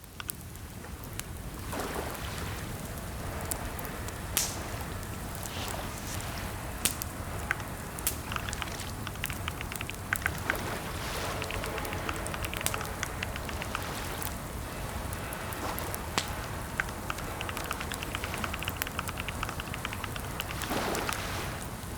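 Computer keyboard typing: scattered key clicks and bursts of quick keystrokes over a steady hiss.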